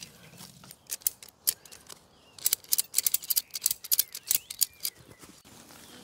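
A rapid, irregular run of sharp clicks, scattered at first and densest from about two and a half to nearly five seconds in, with faint bird chirps behind.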